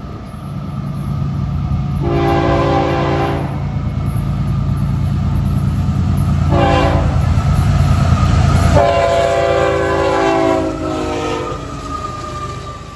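Horn of a Florida East Coast Railway freight led by two GE ES44C4 diesel locomotives, sounding a long blast, a short blast and a long blast, the end of the standard grade-crossing signal. Under it the locomotives' diesel engines rumble, growing louder until the lead units pass about nine seconds in, when the rumble drops away.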